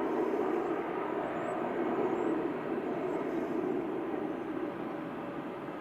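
Jet airliner engines heard as a steady rushing noise that slowly fades near the end.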